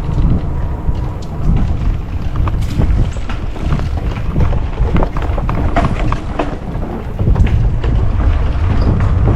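Wind buffeting the microphone over the rumble of a mountain bike rolling along a dirt trail, with scattered clicks and rattles as the tyres go over roots. The rumble grows louder about two-thirds of the way through.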